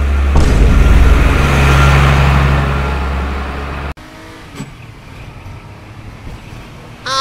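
A loud car engine sound that fades a little, then cuts off abruptly about four seconds in, leaving a much quieter stretch with a faint click or two.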